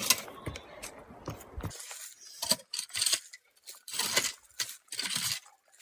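Irregular light clinks and rustles, short and uneven, the sound of small objects being handled, with a few brief quiet gaps.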